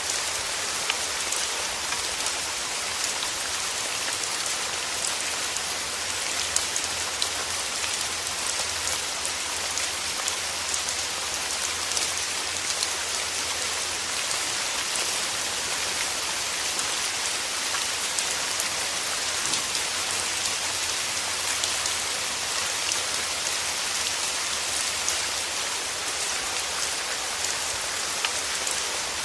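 Steady rain falling and pattering on a surface, a dense even hiss dotted with individual drop ticks.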